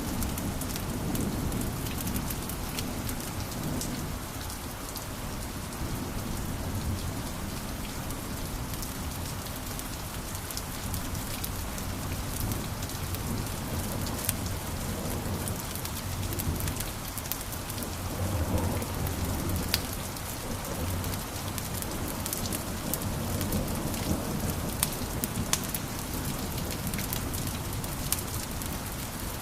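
Wood fire burning in a fireplace: a steady low rumble of flame with frequent sharp crackles and pops throughout.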